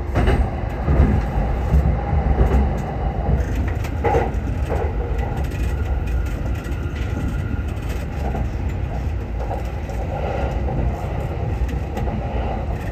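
Local commuter train running, heard from inside the front car: a steady low rumble of wheels on rail, with a few short clacks as the wheels pass over the track.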